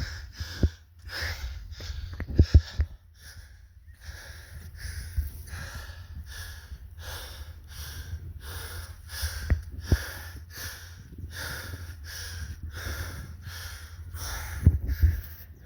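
Heavy, rhythmic panting close to the microphone, breaths about twice a second, from someone out of breath after a steep uphill hike. A steady low rumble runs underneath, with a few sharp knocks.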